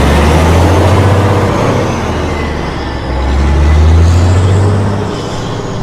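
Kenworth T680 semi truck's diesel engine running, a loud low drone that swells twice and eases off near the end.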